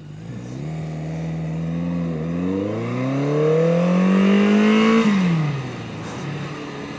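Yamaha 750 Seca's air-cooled four-cylinder engine pulling under acceleration on the road. Its pitch rises, dips briefly about two seconds in, climbs again to a peak about five seconds in, then falls away as the throttle closes.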